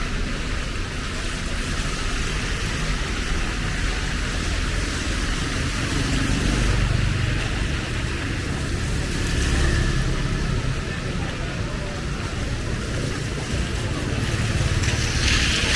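Cars and motorbikes passing on a wet street, their engines swelling several times, over a steady hiss of rain.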